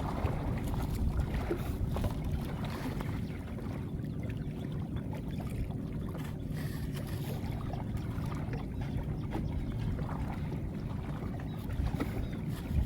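Steady low rumble of a small boat's engine running, with scattered light knocks.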